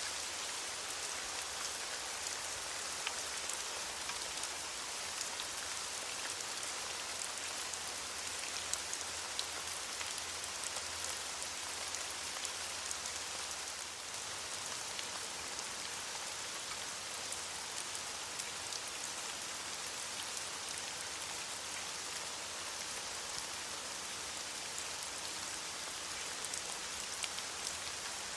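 Steady rain falling on leaves, a continuous hiss with many small drop patters.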